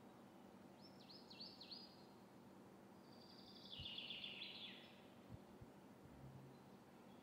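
Near silence with a low steady hum, over which a bird calls faintly: a quick run of four falling notes about a second in, then a longer trilled phrase around the middle.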